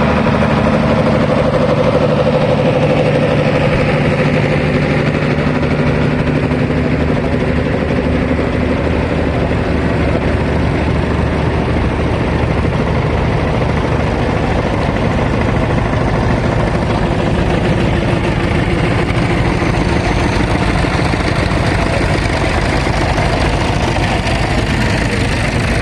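Vintage tractor engines running in a parade. One clear, steady engine note fades over the first several seconds as the tractor moves off, leaving a mix of engine noise from several tractors.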